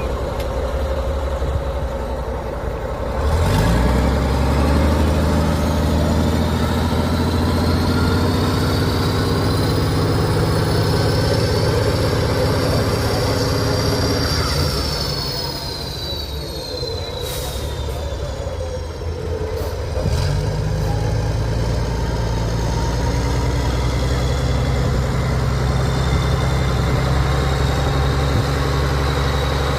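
Heavy off-road trial truck's engine working under load and revving, with a high whine that rises and falls above it. The engine picks up a few seconds in, eases off for a few seconds past the middle, then pulls hard again.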